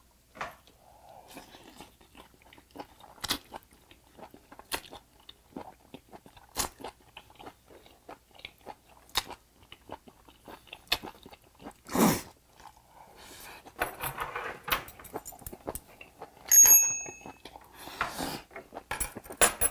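Close-up chewing and lip-smacking of chewy straw-fire-grilled long-arm octopus bitten off a wooden chopstick: a run of small wet clicks and smacks, with one louder smack a little past halfway. A brief bell-like ding sounds near the end.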